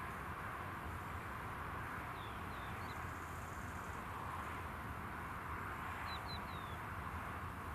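Small birds chirping: short falling chirps in quick clusters of two or three, a couple of times, over a steady rushing noise.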